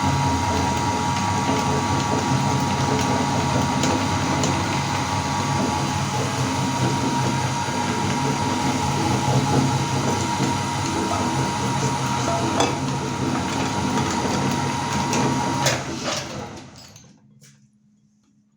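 Electric meat grinder running steadily with a motor hum and occasional clicks as it grinds. It is switched off about sixteen seconds in and winds down to quiet.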